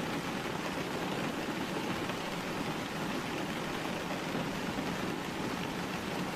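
Steady, even rain falling, a constant hiss of drops with no breaks.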